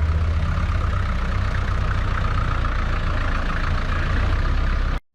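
A vehicle engine idling steadily close by, cutting off suddenly near the end.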